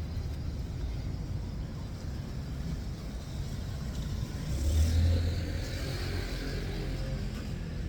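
City street traffic with a steady low rumble; about halfway through, a car passes close, swelling in loudness with a tyre hiss that fades away.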